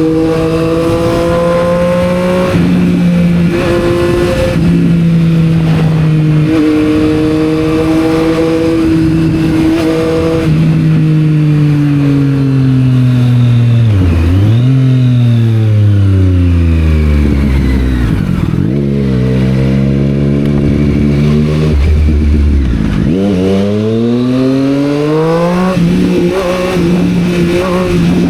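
Triumph Street Triple 765 R's three-cylinder engine through a Yoshimura exhaust while riding: a steady note at first, then falling as the bike slows with a few downshifts, sitting low for a few seconds, then rising again as it accelerates and shifts up near the end.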